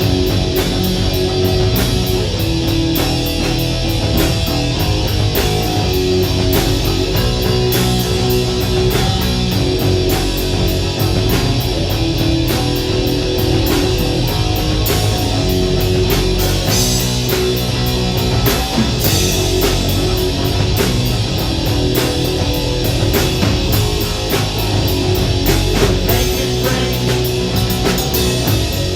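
Rock band playing live: electric guitar, bass and drum kit, with a steady beat on the cymbals.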